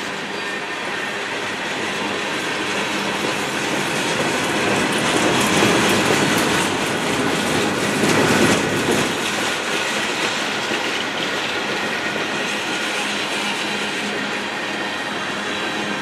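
Freight cars of a passing train, covered hoppers and then tank cars, rolling by on the rails: a steady rush of wheel-on-rail noise, loudest a little past the middle.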